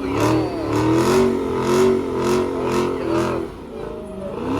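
Car engine revved in quick repeated throttle blips, about two a second, quieter near the end.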